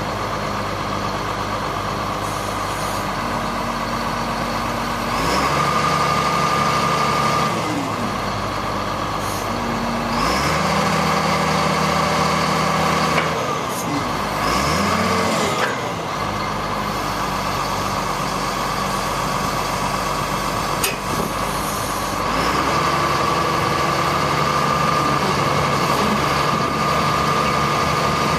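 A 1999 GMC digger truck's engine running, its speed stepping up several times and dropping back to a lower speed in between. A steady high whine comes in with the higher-speed stretches.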